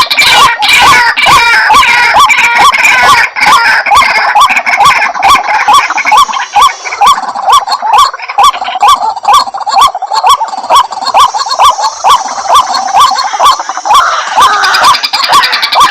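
White-breasted waterhen calling: a loud, fast, evenly repeated series of croaking notes, a few per second, as used in a lure recording to call the birds in.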